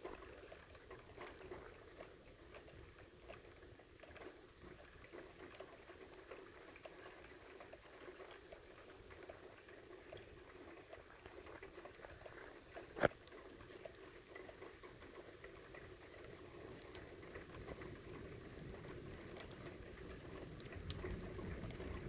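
Rain falling during a thunderstorm, a faint steady patter of many small drops. A single sharp click comes about 13 seconds in, and a low rumble builds near the end.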